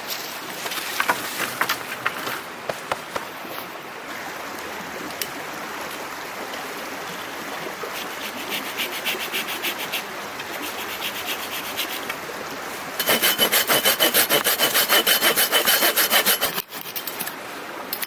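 Hand saw cutting through wood: faint, slow strokes first, then a run of loud, quick strokes at about six a second that stops abruptly near the end. Before the sawing, scattered light knocks and clicks of handling wood.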